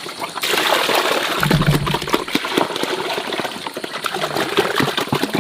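Water gushing and splashing, starting suddenly about half a second in, with many small knocks and a brief low hum about a second and a half in.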